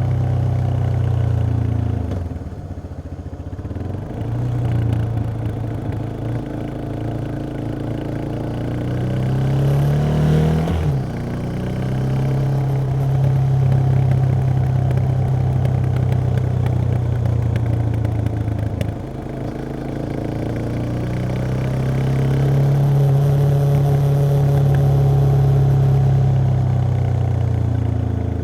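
Yamaha XT 660X single-cylinder engine on stock exhaust, running under way. Its pitch rises and falls with the throttle several times, with a sudden drop in pitch about eleven seconds in.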